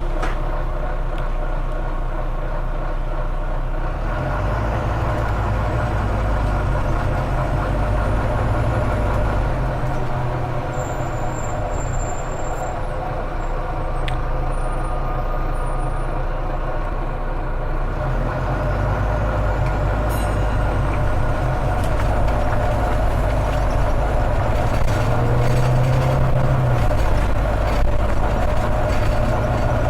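Volvo B9TL double-decker bus's six-cylinder diesel engine running steadily, with a thin turbocharger whistle that rises in pitch twice, about five seconds in and again about seventeen seconds in.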